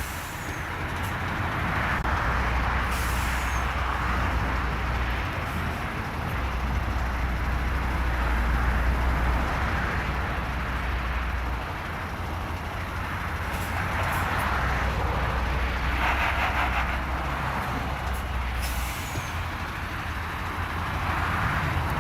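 Semi-truck tractor unit's diesel engine running steadily, with a few brief hisses of compressed air from the air system.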